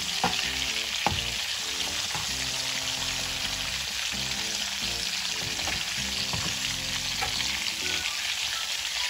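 Pre-boiled chicken pieces deep-frying in oil in a stainless steel pan, a steady sizzle as the skin crisps. A spatula knocks sharply against the pan twice within the first second or so as the pieces are turned.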